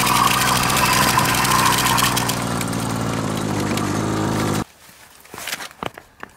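Small pocket bike engine running steadily, then cutting off abruptly a little over four seconds in. A few light footsteps and scrapes follow.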